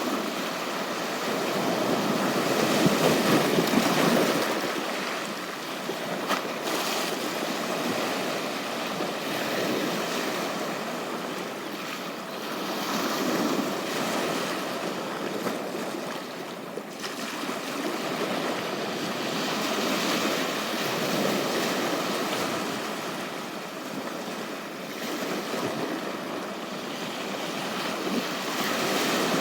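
Waves breaking and washing up a beach, the surf swelling and easing every several seconds, with the strongest surge a few seconds in.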